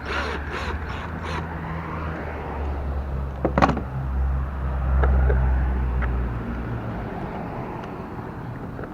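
Low rumble of a passing motor vehicle, swelling about five seconds in and then fading away, with a sharp knock about three and a half seconds in and a few lighter knocks at the start.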